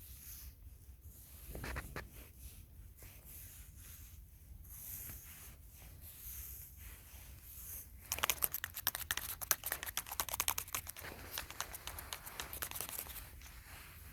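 Soft rustling and crinkling of something being handled, with a louder rustle about two seconds in. A dense run of rapid crackling starts about eight seconds in and dies away about five seconds later.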